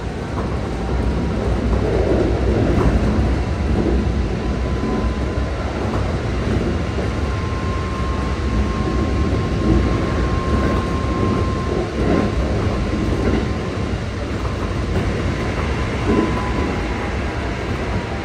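Keikyu 600 series commuter train heard from inside the passenger car while running: a steady rumble of wheels on rails with light clatter over rail joints. A faint thin whine rises out of it around the middle and again near the end.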